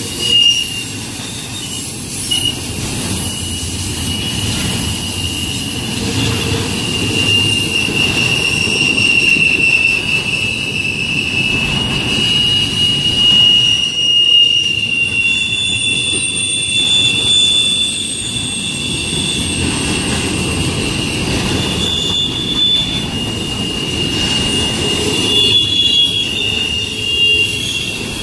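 Double-stack intermodal well cars rolling past, a steady rumble of steel wheels on rail with a long, high, slowly wavering wheel squeal over it.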